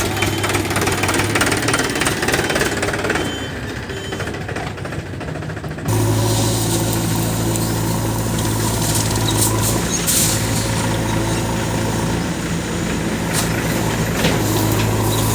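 Heavy diesel engine of a JCB 3DX backhoe loader running steadily while it loads manure, with a few short metallic clatters. The sound changes abruptly and grows louder about six seconds in.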